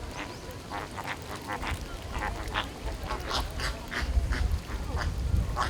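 A flock of flamingos calling: many short calls in quick succession, several a second and overlapping. A low rumble runs underneath, strongest in the second half.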